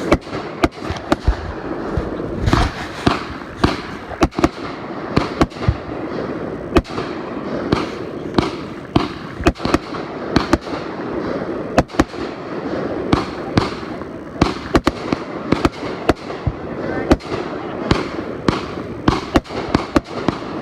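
Fireworks going off: a dense, irregular string of sharp bangs, several a second at times, over a continuous crackle and rumble.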